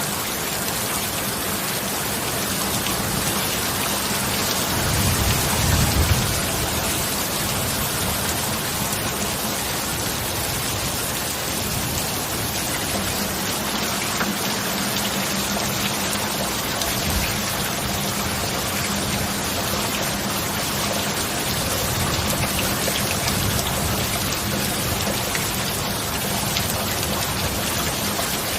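Steady heavy rain, an even hiss of falling drops, with a brief low rumble of thunder swelling about five seconds in.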